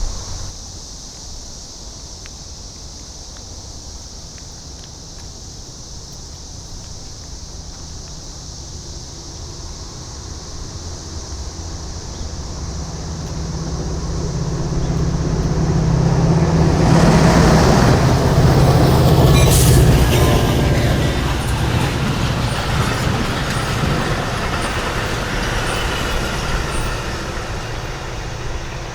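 Cicadas buzzing steadily while a diesel-hauled Metra commuter train approaches and passes, its engine and wheels growing loud and peaking a little past the middle, then slowly fading.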